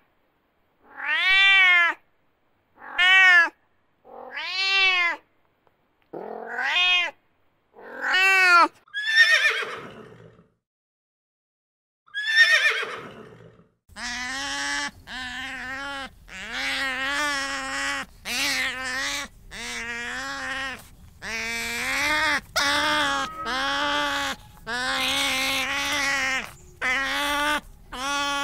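A domestic cat meowing repeatedly: seven or eight drawn-out meows with short gaps. About halfway through, this gives way to a fast run of shorter, lower calls from sea otters, a little more than one a second, over a steady background hiss.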